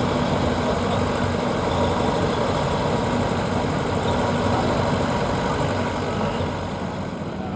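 Heavy diesel engine of a pro stock semi pulling truck idling steadily.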